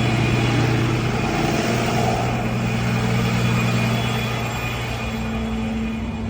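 Heavy truck diesel engine running steadily at low revs with a deep, even hum.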